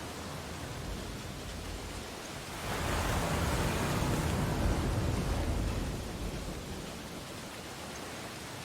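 Ocean surf washing on a beach: a steady rush of water, with one wave breaking and swelling louder about three seconds in, then easing off about three seconds later.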